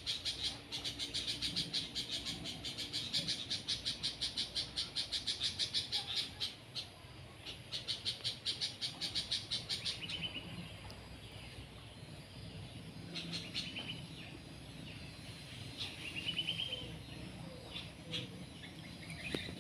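A bird chattering in a long fast run of sharp, high notes, about six a second, during a fight with a woodpecker; the run breaks off and resumes briefly, then gives way to a few single short chirps.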